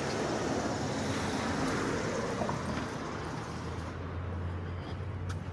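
A car driving past on the street, its tyre and engine noise fading away over the first couple of seconds, followed by a steady low engine hum.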